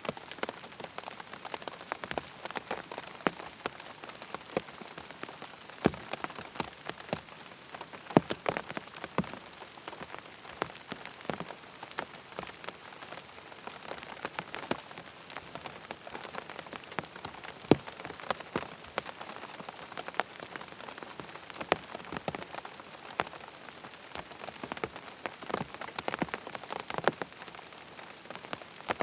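Steady rain falling on a hard surface, with many distinct close drops tapping at irregular intervals.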